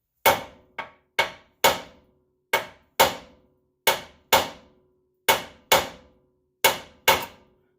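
Hammer striking the steel front suspension of a car about a dozen times, mostly in quick pairs, each blow ringing briefly: banging to loosen it up during a front wheel bearing replacement.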